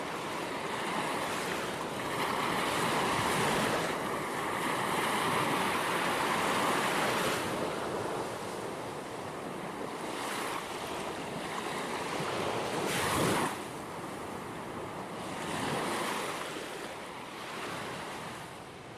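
Ocean waves breaking and washing on a shore, with wind. There are several swells, the loudest a sharp crash about two-thirds of the way through, and the surf fades away near the end.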